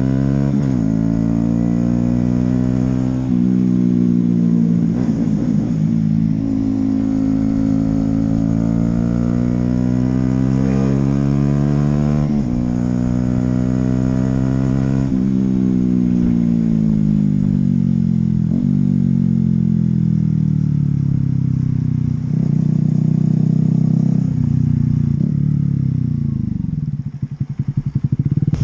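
Honda CB125R's single-cylinder 125 cc engine pulling hard up through the gears, its pitch climbing and dropping sharply at each of several shifts. It then eases off, with the pitch falling slowly, and near the end drops to a low, lumpy idle.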